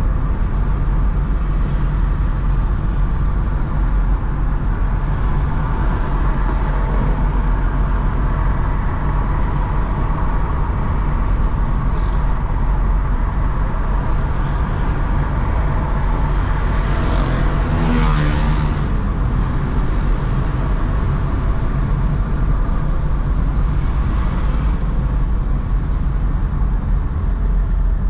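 Steady low rumble of car and road noise while driving in city traffic, with a louder swell of noise about two-thirds of the way through as a vehicle passes close by.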